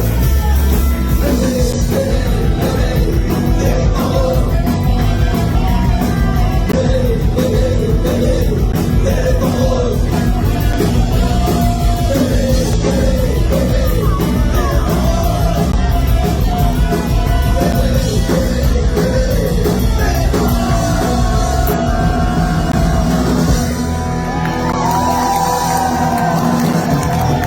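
A live band playing loud rock music with a singer's vocals.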